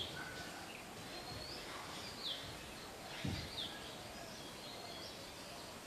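Parrots calling: short high chirps and quick falling whistles, one every second or so, over a steady background hiss. A single low thump about three seconds in.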